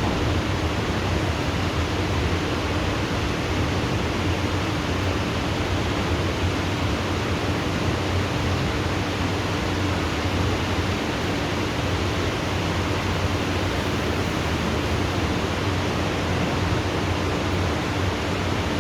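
Heavy rain pouring steadily during a thunderstorm, with a faint steady hum beneath it.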